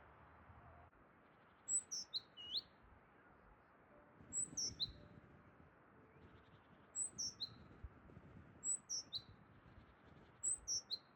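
A small songbird singing a short phrase of three high notes that step down in pitch, repeated five times.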